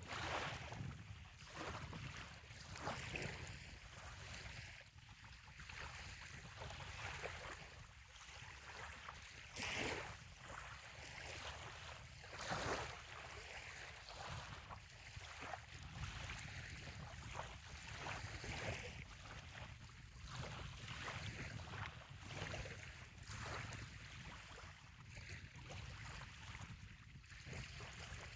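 Gentle bay water lapping on a sandy shoreline: small waves breaking in irregular soft splashes every second or two, over a steady low rumble.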